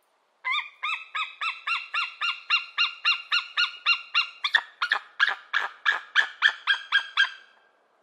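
White-tailed eagle calling: a long series of about twenty sharp yelping notes, about three a second, the later notes lower and rougher.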